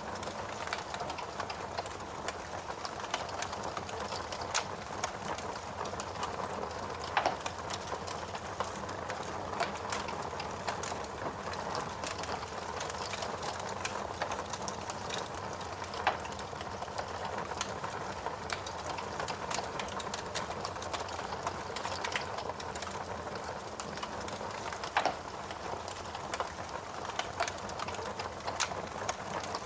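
Wood fire crackling in a fireplace: a steady hiss dotted with frequent small snaps, and three louder pops spaced evenly through.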